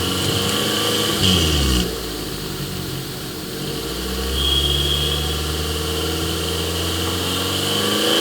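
Hyundai i10 car engine revving: the pitch climbs for about the first second and a half, then drops back suddenly. It then runs at a steady speed and climbs again near the end.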